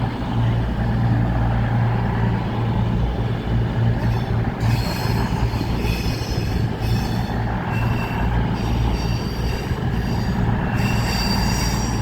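A train moving along the platform with a steady low rumble. From about four seconds in, high-pitched wheel squeals come and go.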